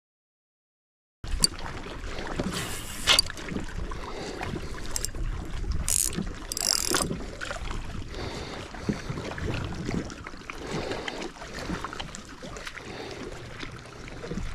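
Knocks, rubbing and water sounds from a fishing kayak on the water, with wind on the microphone and a few short hissing bursts; it starts after about a second of silence.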